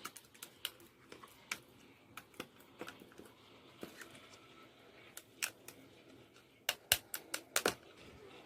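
Slime being squished and handled, giving irregular sharp clicking pops, with a quick cluster of louder pops about seven seconds in.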